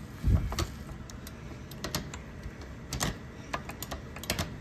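Clicks and light knocks of an O scale model diesel locomotive being handled and set onto the track rails, with one low thump near the start and about half a dozen sharp separate clicks after it.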